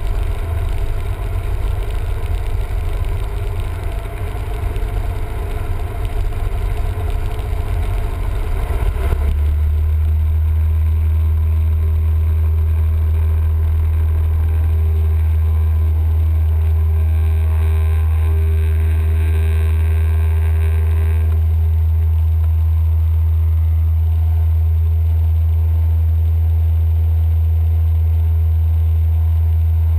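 Cessna 172M's engine and propeller droning steadily, heard from inside the cabin. About nine seconds in the sound changes from a rougher, uneven drone to a smooth, very steady low hum.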